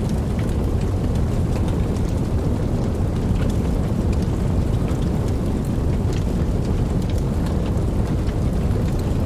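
Steady rain with a continuous deep rumble underneath and scattered crisp drop ticks, with no single thunderclap.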